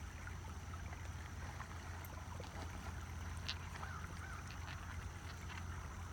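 Steady low rumble and hiss of running creek water, with a few faint small clicks.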